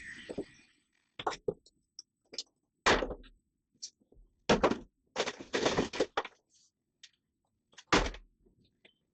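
Irregular knocks and thuds of hand demolition work on the boat's wooden interior, with a quick run of clattering about five to six seconds in.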